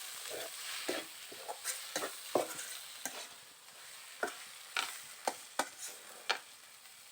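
A spoon stirring and scraping banana-flower bhaji in a pan over a fading sizzle of frying, with irregular clicks of the spoon against the pan.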